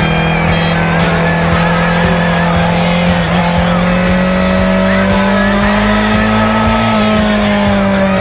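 KTM 690 Duke R's single-cylinder engine pulling at fairly steady revs while riding, with wind noise over the camera. The engine note rises slowly about five seconds in and drops back shortly before the end.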